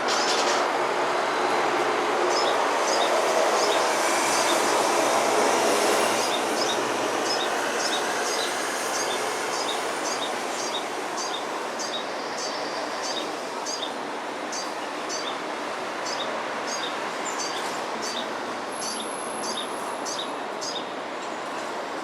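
Female olive-backed sunbird giving a long series of short, high chirps, a little under two a second, over a loud background rumble that swells in the first few seconds and then eases off.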